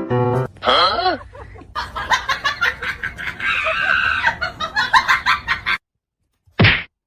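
Animal calls: a couple of rising-and-falling cries, then a quick run of short calls that cuts off suddenly near the end.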